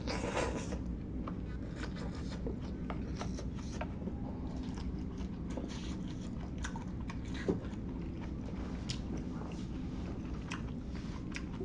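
A person eating noodle hot pot close to the microphone: chewing, with many small wet mouth clicks, over a steady low hum. A longer noisy sound comes right at the start, and a sharper louder click about seven and a half seconds in.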